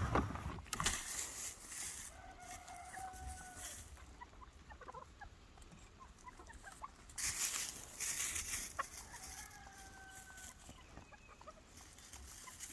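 Backyard chickens clucking and calling, with two drawn-out calls a few seconds apart and scattered short clucks. Two brief bursts of rustling noise come between them.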